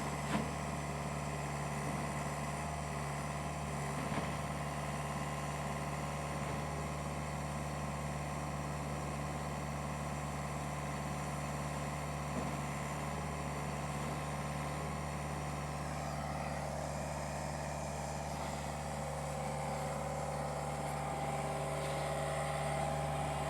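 Heavy engine idling steadily, with a few faint clicks. From about two-thirds of the way in, a higher steady whine grows a little louder.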